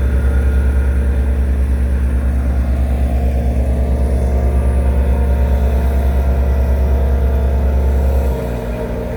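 Heavy road-construction machine engine running steadily with a deep, even hum, dropping to a lower level about eight seconds in.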